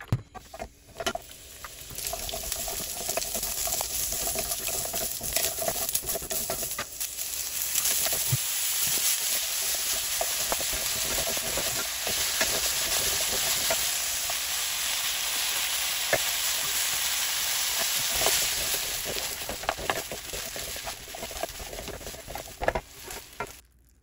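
Stir-fried vegetables, then kimchi and rice, sizzling in oil in a nonstick frying pan, with scattered taps and scrapes of a utensil against the pan. The sizzle starts softly, grows louder about two seconds in, and stops suddenly near the end.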